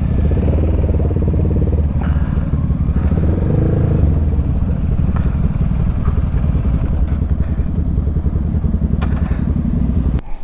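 Honda Grom's 125 cc single-cylinder engine running at a fairly steady speed through an aftermarket Zoom loop exhaust.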